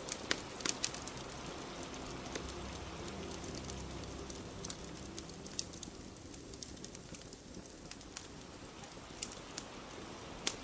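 Wood fire crackling, with irregular sharp pops and snaps, over a steady hiss of falling rain.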